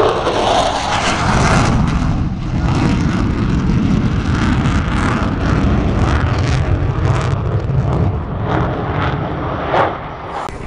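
F-16 fighter jet's engine as it flies past, a loud, continuous low rumble. The higher hiss fades after about two seconds, leaving mostly the deep rumble as the jet draws away.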